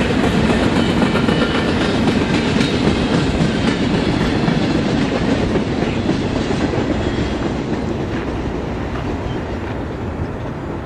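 Freight train cars rolling on the rails, a steady noise of wheels on track that fades gradually over the last few seconds as the train moves away.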